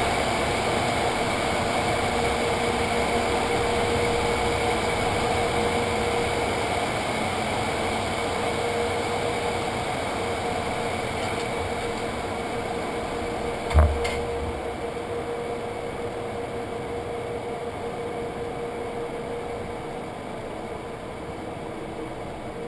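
Steady whir of automatic car wash machinery heard from inside a truck's cab, slowly growing quieter, with a single thump about fourteen seconds in.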